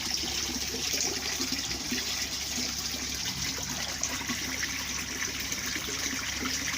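Water running steadily into a koi pond as it is refilled after a liner repair.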